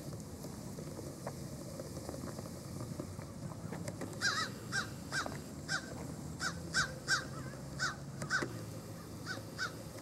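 A bird giving a series of short, harsh calls, about a dozen in irregular succession, starting about four seconds in, over a steady low background noise.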